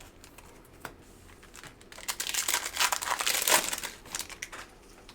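Plastic trading-card pack wrapper crinkling as it is opened and handled, a dense burst of crinkling about two seconds in that lasts roughly two and a half seconds, after a few light clicks.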